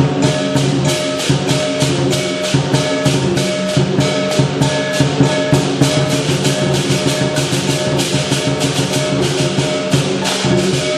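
Lion dance percussion: a big drum, gong and clashing cymbals playing a fast, steady beat of about four strokes a second.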